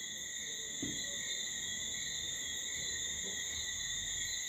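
Steady high-pitched chirring of insects, with faint low handling noise underneath.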